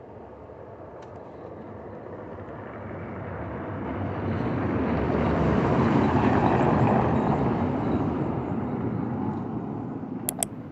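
A motor vehicle passing by: a steady engine and road noise that grows louder over about six seconds, peaks, then fades away. Two sharp clicks sound near the end.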